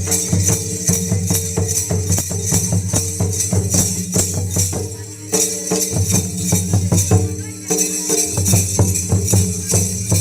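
Traditional Ho Munda dance music: a steady, rapid drum beat with bright jingling percussion over it.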